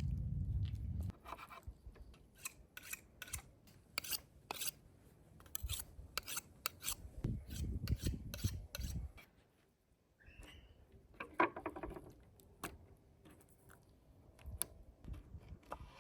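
A low rumble that stops about a second in, then irregular scraping and rubbing with many sharp clicks and knocks.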